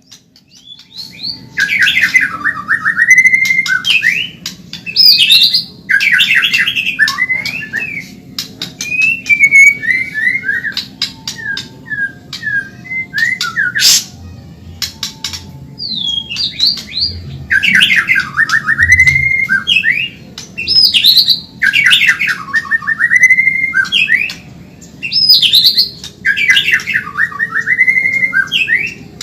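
White-rumped shama (Medan murai batu) singing a fast, vigorous song: phrases of quick sweeping notes and rapid trills repeated every couple of seconds, with sharp clicks between them and a brief lull about halfway through.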